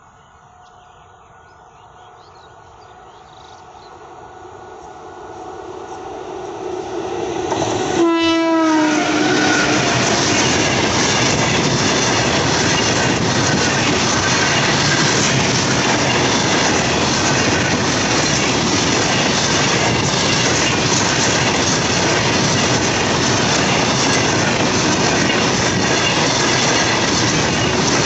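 Indian Railways freight train approaching and passing close by. The sound grows louder for about eight seconds. A horn sounds as the locomotive passes, its pitch dropping. Then a long rake of open-top freight wagons rolls by with a steady loud rumble and wheel clatter.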